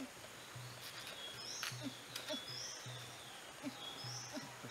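Forest stream ambience with a bird repeating a short high call, roughly once or twice a second, over a low pulsing hum. There is a single sharp knock about a second and a half in.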